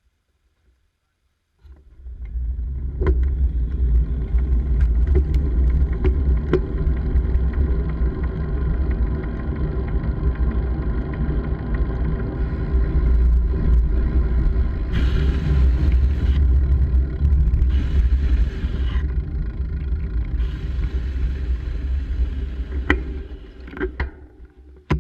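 Wind rumbling on the microphone with road noise while riding, starting about two seconds in, with a few sharp knocks and short spells of higher hiss.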